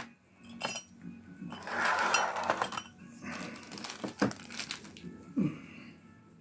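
Workbench handling noises: several sharp clicks and taps, with a brief rustle about two seconds in, as small clipper parts and tools are picked up and put down.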